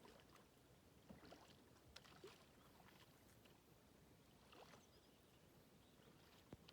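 Faint, irregular splashes and drips of water from a kayak paddle, over a very quiet background.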